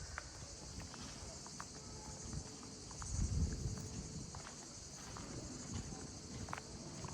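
Footsteps of someone walking, as scattered small clicks, over a steady high-pitched insect chirring; a low muffled rumble swells about three seconds in.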